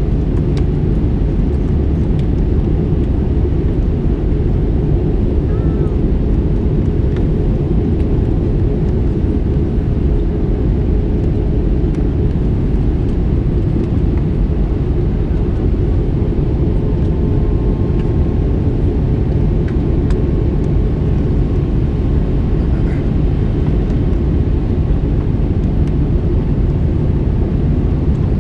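Steady, loud cabin noise of an Airbus A321 in flight: its IAE V2500 engines and the airflow over the fuselage, heard from inside the cabin, with most of the sound deep and low.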